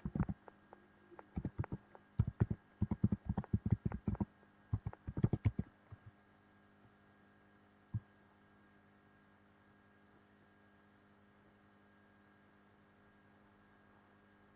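Computer keyboard typing in quick, irregular runs of key clicks for about six seconds, then a single click about eight seconds in, over a steady low electrical hum.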